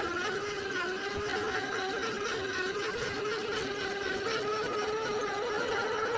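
Electric motor and drivetrain of a 1/10-scale RC crawler (Hobbywing Fusion motor) whining steadily as the truck crawls along, its pitch wavering slightly with the throttle.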